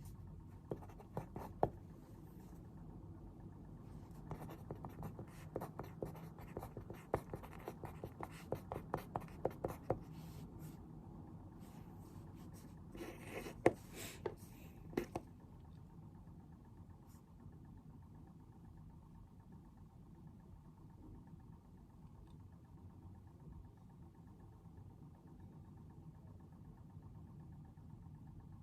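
Pen writing on paper at a desk, with quick scratching strokes and light taps for about the first fifteen seconds. The writing then stops, leaving a faint steady low room hum.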